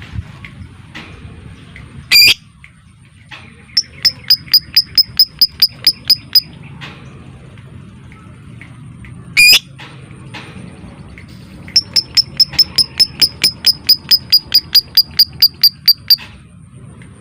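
Lovebird giving a sharp single shriek, then a run of rapid, evenly spaced high chirps at about five a second for a couple of seconds. A second shriek follows, then a longer run of the same chirps lasting about four seconds. This is the long rattling chatter that lovebird keepers call ngekek.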